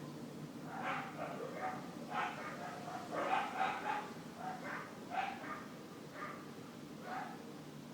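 A dog barking repeatedly in short, irregular barks, most closely packed about three to four seconds in, over a steady low hum.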